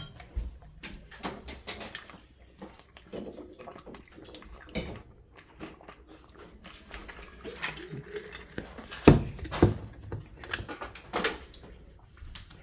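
Scattered small clicks and knocks of objects being handled, with a louder thump about nine seconds in and another just after it.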